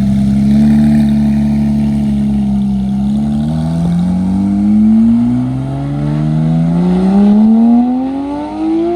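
A car engine accelerating hard. Its pitch holds steady, then climbs from about three seconds in, drops at a gear change around six seconds, and climbs again to a high peak at the end.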